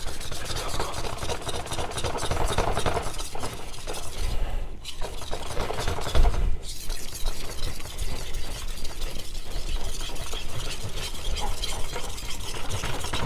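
Steel knife blade stroked fast back and forth across a wet whetstone, a rapid scraping rasp of freehand sharpening to set the edge on the first stone. It pauses briefly twice, about four and a half and six and a half seconds in.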